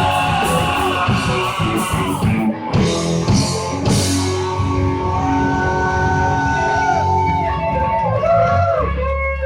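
Live rock band playing the last bars of a song: electric guitar sustaining and bending notes over drums and bass, settling onto a held low chord near the end.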